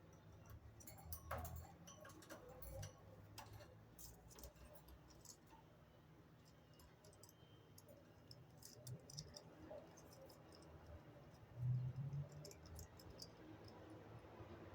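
Faint, irregular light clicks and ticks, with a brief soft low bump about twelve seconds in.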